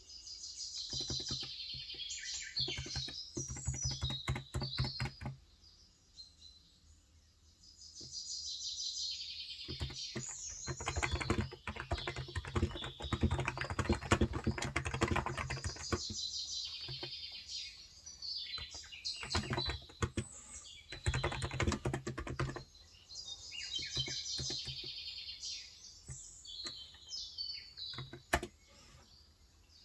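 Typing on a Cox Endeavor electro-capacitive (topre-style) 35 g tenkeyless keyboard in bursts of rapid keystrokes with short pauses. Birds chirp in the background, coming and going several times.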